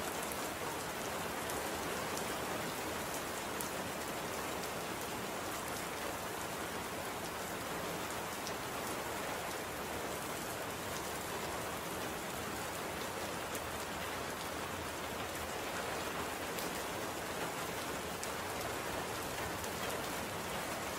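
Steady rain falling, an even hiss with individual drops ticking on a surface here and there.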